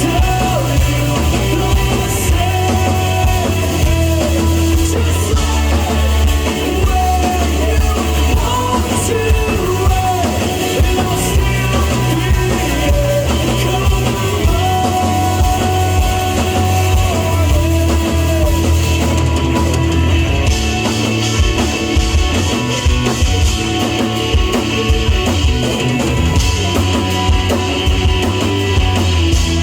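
A full rock band playing live: drum kit, bass and guitar, with singing.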